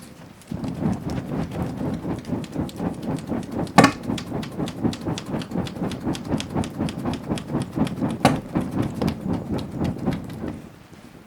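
Bonfire crackling hard, a dense run of sharp snaps with two louder pops. It flares up suddenly and dies down after about ten seconds.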